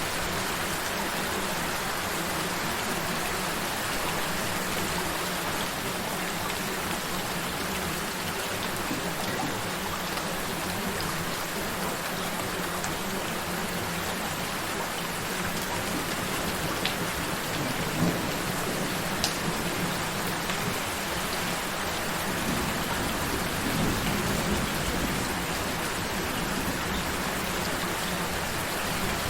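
Steady gentle rain falling, an even hiss with a few louder single drops, over a faint low steady tone.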